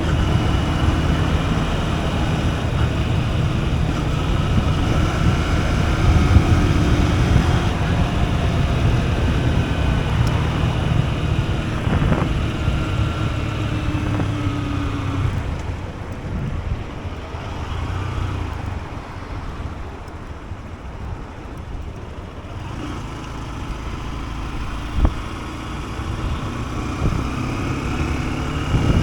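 Honda CB125F's small single-cylinder engine running under way, with wind rushing over the camera microphone. The engine pitch rises and falls as the bike speeds up and slows down. It eases off and goes quieter about halfway through, then pulls again near the end.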